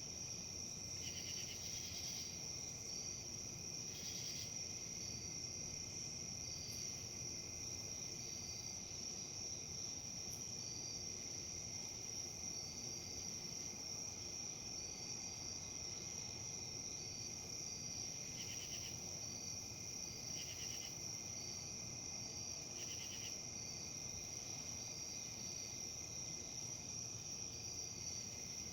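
Steady insect chorus, crickets and the like: a continuous high trill with short chirps repeating every second or two. Under it is a soft, even rustle of breeze.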